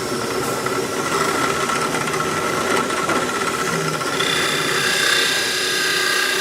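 Angle grinder running as a sander and grinding against wood, a steady motor whine over a rough abrasive rasp. The whine's pitch steps up about four seconds in.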